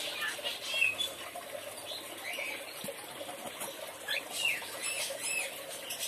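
Birds chirping: short, scattered high chirps and a few quick sliding squeaks, over a steady low hum and hiss.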